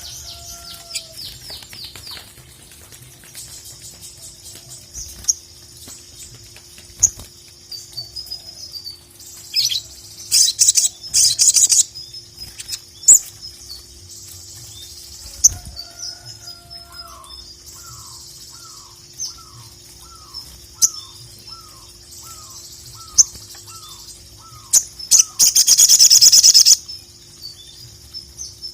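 Sogok ontong (sogon) songbird singing continuously in high, fast chattering notes, with loud dense trilling bursts about a third of the way in and near the end. A run of about a dozen short, evenly spaced lower notes sounds in the middle.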